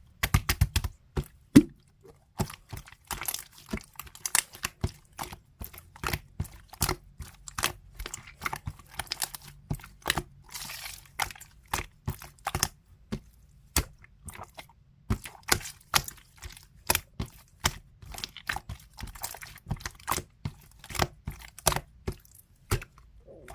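Slime being squished and stretched by hand, making many quick, irregular clicks and little pops as air pockets burst.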